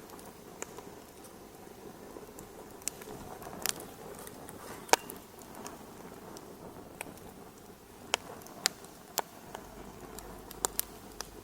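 Wood fire crackling in a fireplace: irregular sharp pops and snaps over a soft steady hiss, the loudest pop about five seconds in and a quick run of them near the end.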